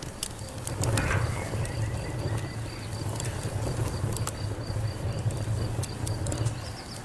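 Wood fire crackling: scattered sharp pops and snaps over a steady low rumble, with a faint high chirp repeating several times a second.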